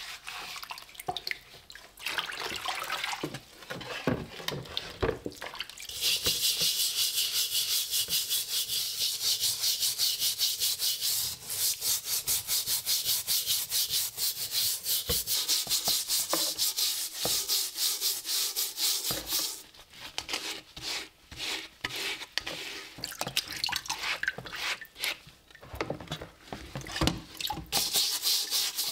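Rusty steel helmet shell being scrubbed by hand with quick, even back-and-forth strokes that have a gritty, hissy sound. The scrubbing runs steadily from about six seconds in to about twenty seconds, with shorter, broken strokes before and after.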